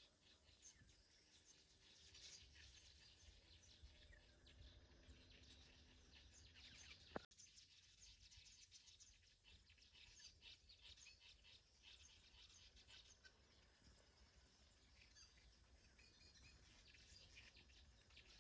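Near silence: faint outdoor ambience with scattered faint bird chirps, and a single sharp click about seven seconds in.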